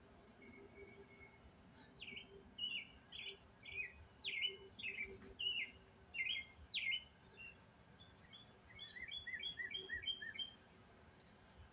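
Songbird singing: a series of about ten loud, down-slurred notes, then a quicker run of short repeated notes near the end, over a faint steady hum.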